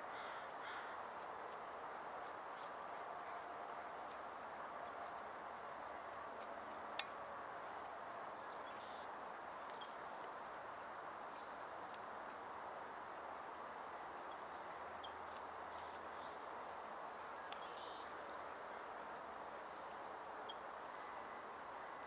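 A bird repeating short, high whistled notes that slide downward, usually in pairs, every two or three seconds, over a steady background hiss. A single sharp click sounds about seven seconds in.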